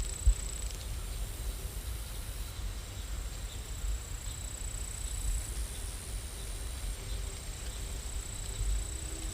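Steady rain ambience: an even hiss over a low rumble, with a faint high whine that comes and goes.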